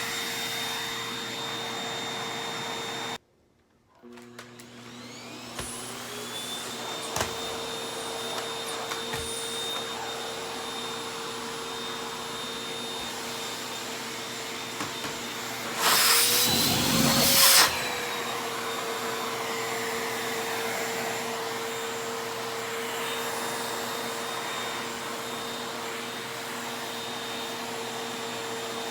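Vacuum cleaner motor running with a steady hum and a high whine. It cuts out about three seconds in and spins back up with a rising whine. Around the middle there is a louder rushing stretch of under two seconds, with the pitch rising briefly.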